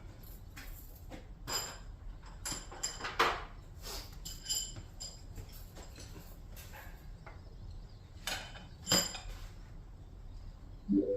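Irregular metal clinks and knocks, a dozen or so, several ringing briefly, as of metal hardware or tools being handled and set down. A short rising squeak near the end.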